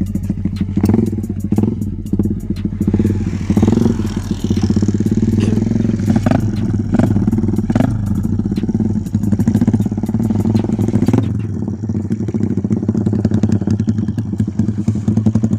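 Single-cylinder underbone motorcycle engine running hard at fairly steady high revs, the rapid firing pulses continuous throughout.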